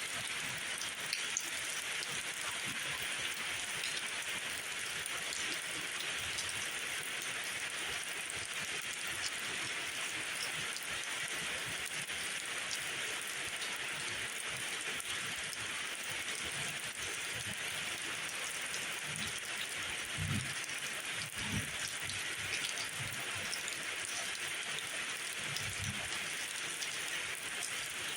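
Steady rainfall, an even hiss with many small drop ticks throughout. A few soft low thuds land in the second half.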